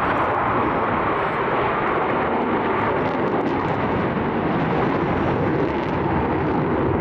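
The four Rolls-Royce Olympus turbojets of an Avro Vulcan bomber, a steady, loud jet roar as the aircraft flies its display.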